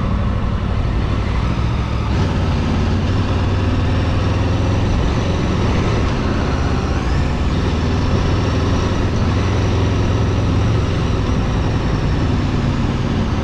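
Steady vehicle engine and road noise while driving, a constant low hum with no breaks.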